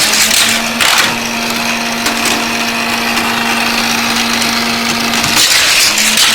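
Motorized booster of a Hot Wheels toy track set whirring steadily, a small electric motor with plastic clatter, then cutting off about five seconds in.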